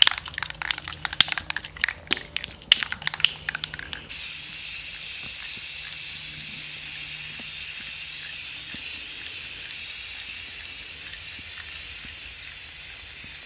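Aerosol spray paint can: a few seconds of irregular clicks and rattles, then about four seconds in a steady, loud hiss of paint spraying continuously.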